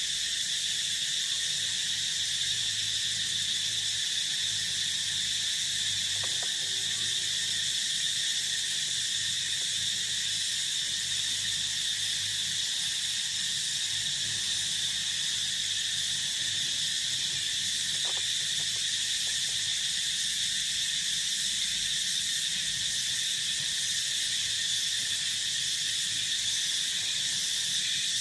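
Steady chorus of crickets and other insects trilling without a break, a high continuous chirring.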